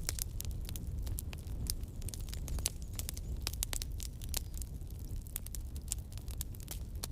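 Campfire burning and crackling: a steady, irregular run of sharp pops and snaps over a low, steady rumble.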